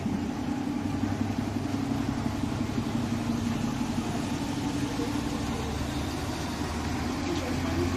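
Mitsubishi Fuso Aerostar city bus's diesel engine idling steadily, with an even low hum.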